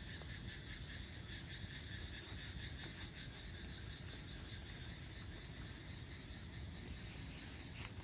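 Wood fire burning in a small secondary-combustion fire pit: a faint, steady low rush with scattered soft crackles. A steady high chirring tone runs over it.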